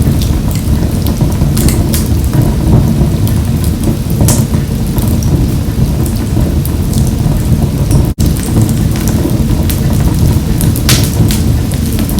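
Wood fire burning in a wood-burning stove: a steady low rumble with irregular sharp crackles and pops. The sound drops out for a split second about eight seconds in.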